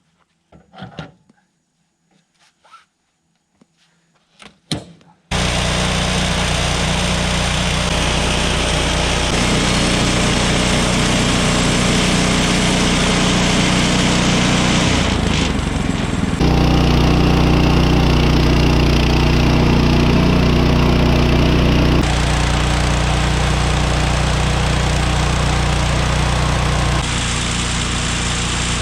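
A few light knocks, then about five seconds in the Woodland Mills HM126 portable bandsaw mill comes in suddenly: its small gas engine running loud and steady under load as the blade cuts a cherry slab into 4/4 boards. The sound shifts abruptly several times.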